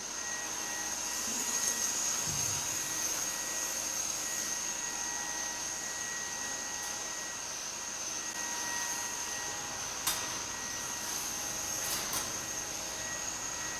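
Great Clock of Westminster's mechanism running: a steady mechanical whirr with a thin high whine, and sharp ticks about two seconds apart in the second half.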